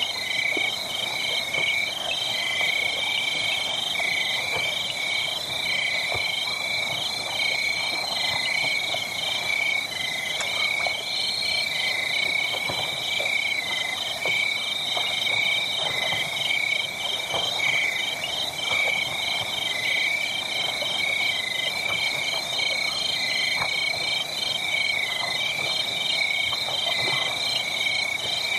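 A steady night chorus of fast, pulsing high chirps, with a wood fire crackling in scattered small pops beneath it.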